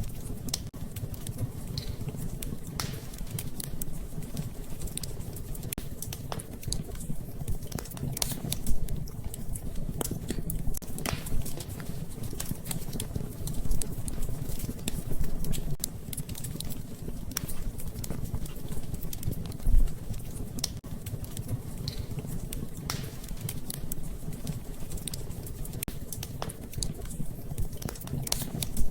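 Wood fire crackling in a fireplace: irregular pops and snaps, a few louder ones, over a steady low rumble.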